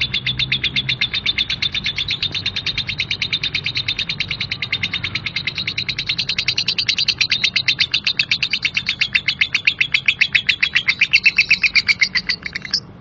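Female lovebird's 'ngekek': a long, unbroken, rough chatter of rapid repeated notes at about ten a second. It grows louder in the second half and cuts off just before the end.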